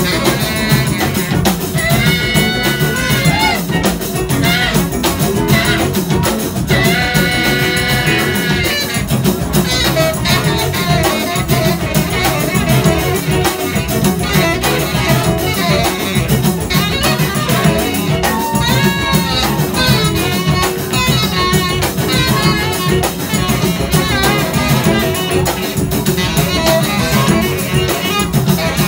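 Live band playing an instrumental passage: electric guitar lines with bending notes over a drum kit, with horns in the mix.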